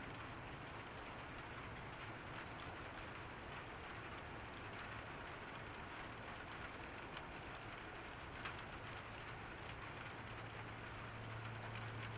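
Summer rain falling on a garden: a steady soft hiss with scattered faint drop ticks. A low steady drone swells in over the last few seconds.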